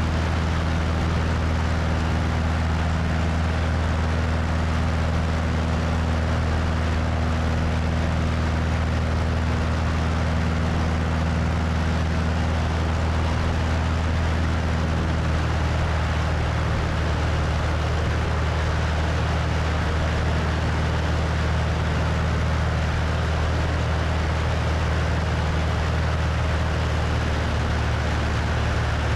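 Cessna 172's piston engine and propeller droning steadily in flight, with wind rushing over a wing-mounted microphone. The pitch of the drone holds steady, with a slight change in its tone about halfway.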